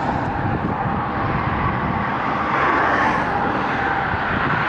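Steady rush of high-speed highway traffic, cars and trucks passing close by, with wind buffeting the microphone. It swells a little about three seconds in, as a vehicle goes by.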